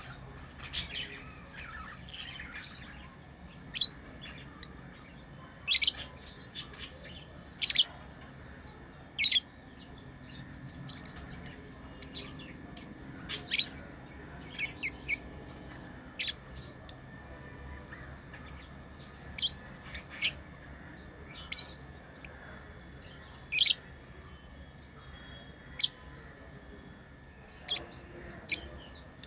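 Pet lovebirds chirping: short, sharp, high-pitched chirps at irregular intervals, one every second or so.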